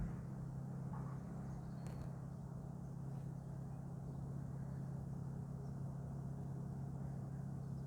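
Steady low vehicle hum over an outdoor rumble, with one faint click about two seconds in.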